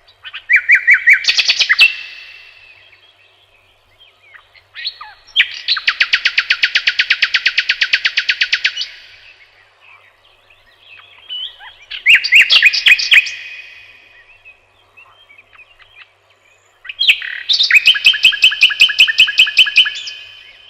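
A songbird singing four separate phrases of rapid repeated trill notes, each a second or two long, with pauses of a few seconds between them. The longest phrase, a few seconds in, is an even trill of about ten notes a second.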